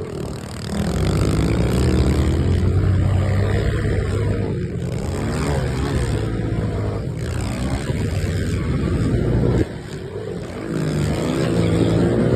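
Dirt bike engine being ridden hard, revving up and down with the throttle. The sound drops off suddenly about ten seconds in, then climbs again.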